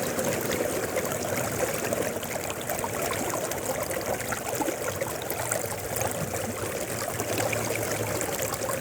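Mountain river flowing steadily: a constant rush of water with many small splashes.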